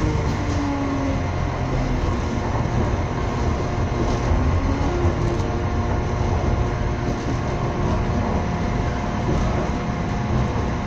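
Passenger train running along the track, heard from on board: a steady rumble of wheels on rails, with a faint whine that slides down in pitch in the first second.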